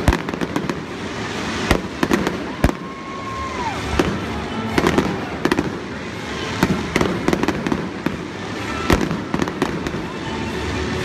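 Aerial fireworks bursting overhead in a finale: sharp bangs and crackles come in quick clusters every second or two.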